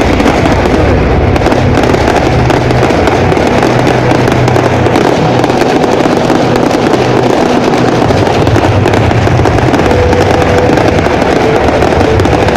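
Fireworks going off in a dense, unbroken barrage of bangs and crackling, loud throughout.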